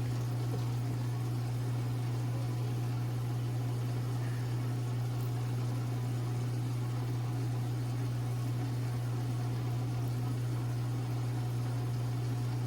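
A steady low hum with a faint rushing noise over it, unchanging throughout, with no distinct knocks or clicks.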